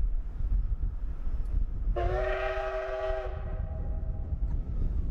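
Steam locomotive whistle giving one blast of about a second and a half, several tones sounding together, over the low rumble of strong wind buffeting the microphone.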